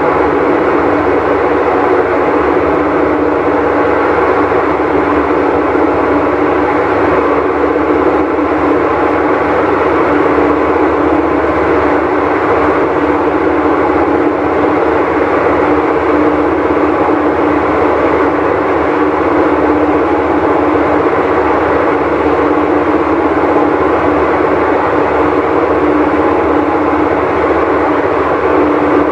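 Whirlpool Cabrio top-load washer running with a loud, steady roar and a constant hum: the noise of a bad tub bearing.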